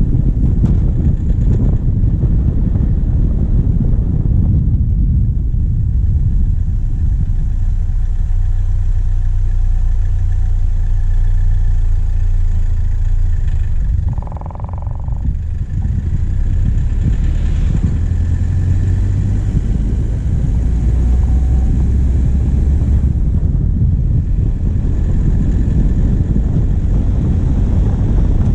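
Diesel engine of a vehicle driving along a forest track, heard as a steady low rumble through a bonnet-mounted camera, with a brief drop in level about halfway through.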